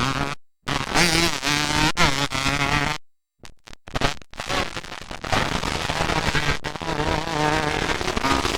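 Motocross dirt bike engines running hard, their buzzing pitch rising and falling as the riders work the throttle and shift. The sound cuts out completely a few times, briefly.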